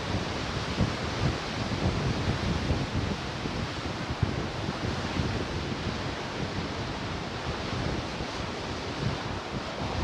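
Ocean surf washing steadily onto the shore, with wind buffeting the microphone in uneven low rumbles.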